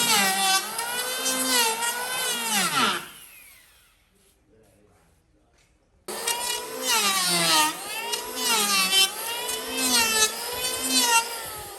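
Handheld power tool motor whining as it works wood, its pitch wavering with the load. It is released about three seconds in and winds down, then restarts abruptly halfway through and runs again before fading near the end.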